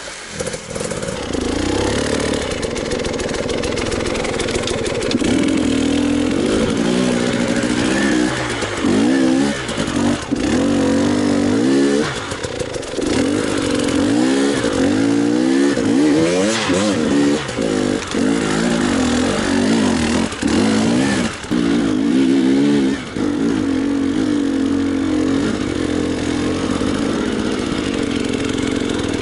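Enduro motorcycle engine running and revving up and down repeatedly as the throttle is opened and closed, with a few brief drops in the revs.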